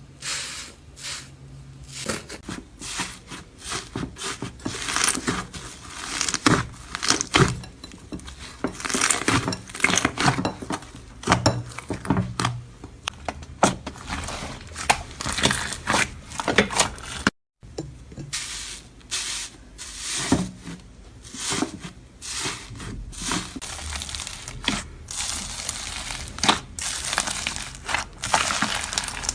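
Slime being squeezed and worked by hand, giving irregular crackling and popping clicks, with a brief break about seventeen seconds in.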